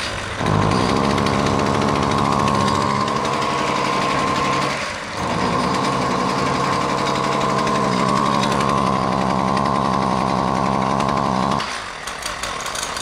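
Husqvarna 128LD string trimmer's small two-stroke engine running at a steady pitch, failing to rev up. It dips briefly about five seconds in and drops away near the end. The owner takes the cause for a spark arrestor screen clogged with oily carbon.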